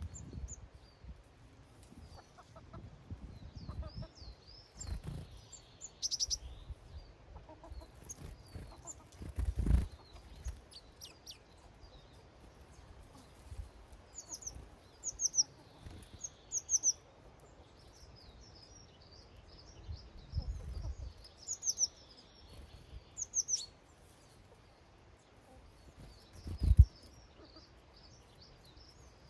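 Small garden songbirds at a feeder, giving repeated short, high chirps and trills, with hens clucking faintly now and then. A few low thuds come through, the loudest near the middle and near the end.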